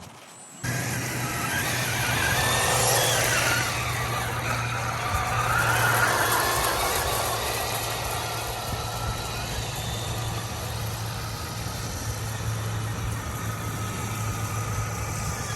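A motor running steadily with a low, even hum. Over it is a higher, wavering whine that swells twice, about three and six seconds in.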